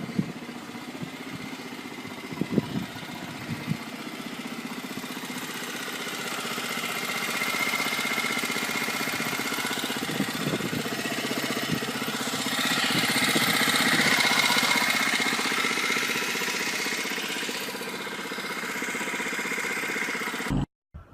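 Small engine of a mini car running steadily. It grows louder through the middle, then eases off, and cuts off abruptly near the end.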